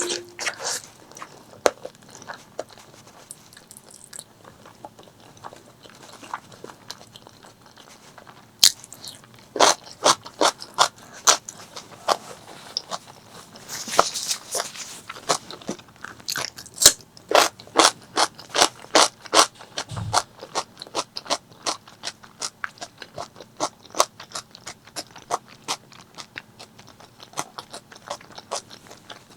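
Close-miked eating of spicy pork leg curry with rice: wet chewing, smacking and crunching mouth sounds. The sounds are sparse at first, then become a steady chewing rhythm of roughly two or three sharp smacks a second from about nine seconds in.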